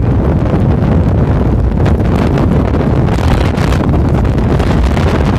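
Blizzard wind buffeting the microphone: a loud, steady low rumble, with a harsher rush of wind about three seconds in.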